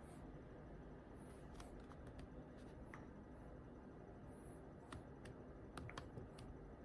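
Quiet computer work: scattered, irregular soft clicks of a keyboard and mouse, a little busier near the end, over a faint steady room hum.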